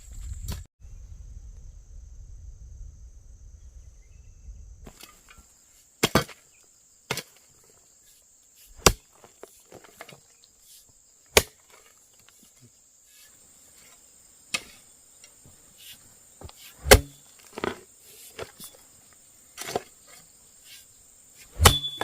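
Sharp chopping strikes, about eight of them, a second or three apart, over the steady high drone of insects. A low rumble fills the first few seconds.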